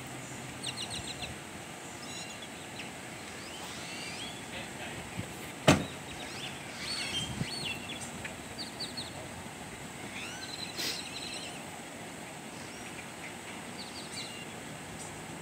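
Birds chirping in short repeated bursts over a steady outdoor background hiss, with one sharp click a little before the middle and a fainter one about two-thirds through.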